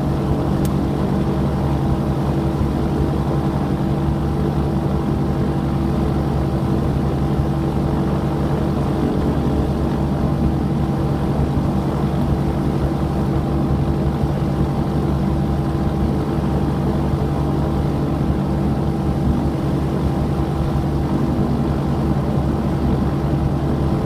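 Cessna 421's twin piston engines running steadily: an even drone with several held low tones.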